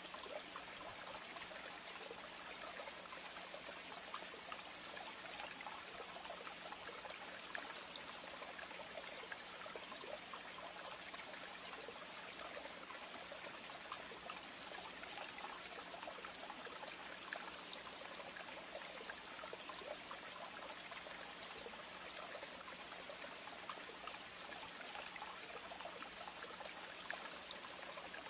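Steady noise of running or falling water, even throughout, with a faint steady low hum underneath.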